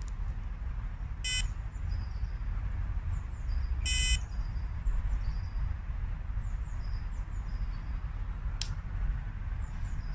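Wind rumbling on the microphone beside a small river, with two short buzzing beeps about a second and a half and four seconds in, and faint high bird chirps repeating.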